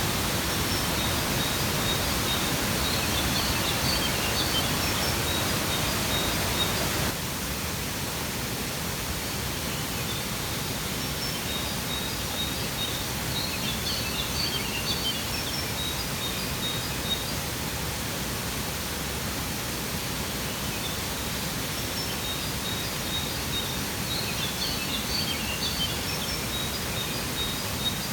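Steady rushing of a waterfall, with small birds chirping in three bursts spaced about ten seconds apart. The water noise drops slightly about seven seconds in.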